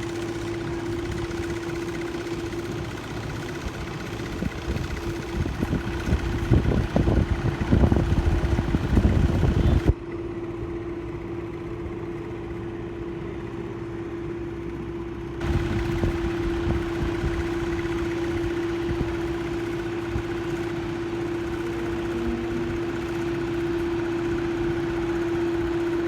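Steady engine hum holding one constant pitch. A low rumble swells over several seconds and then cuts off abruptly about ten seconds in. A rumble returns suddenly a few seconds later.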